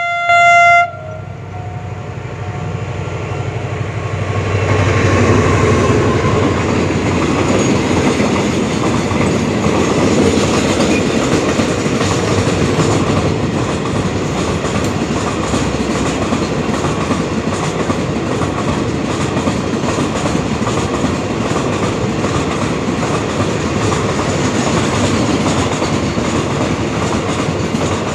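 Diesel locomotive horn blasts once, briefly, at the start, then a long container freight train of 32 flat wagons rolls past with a steady rumble and wheel clatter on the rails.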